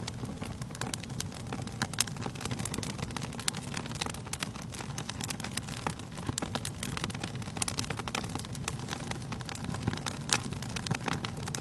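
Wood fire burning in a fireplace, with frequent irregular crackles and pops over a low steady rumble; a couple of louder pops stand out, about two seconds in and near the end.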